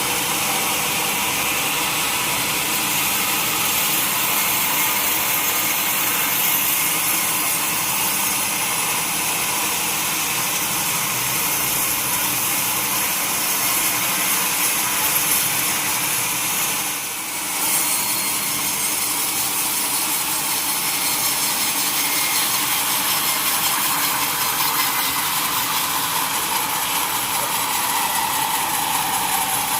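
Sawmill saw cutting lengthwise through a solid mahogany log, a steady loud cutting noise that dips briefly a little past halfway.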